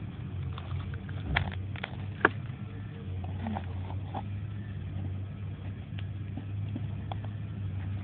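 Small campfire crackling, with scattered sharp snaps, the loudest about a second and two seconds in, over a steady low hum.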